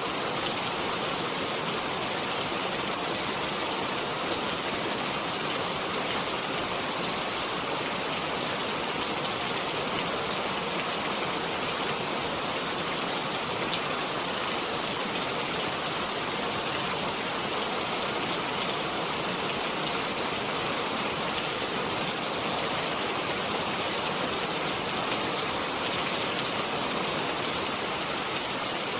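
Steady rainfall, an even hiss of rain with fine scattered drop patter throughout.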